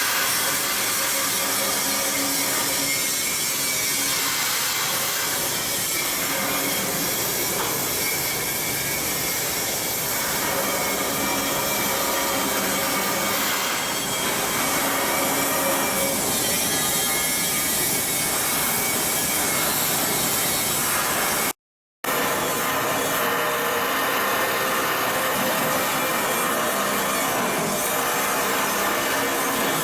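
Steady hissing, grinding din of steel shipbuilding work with power tools running, cut by a momentary dropout a little past twenty seconds in.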